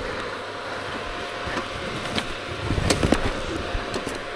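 Two-stroke dirt bike running low and steady on a rough downhill trail, with knocks and rattles from the bike and tyres over rocks and roots, several coming together about three seconds in.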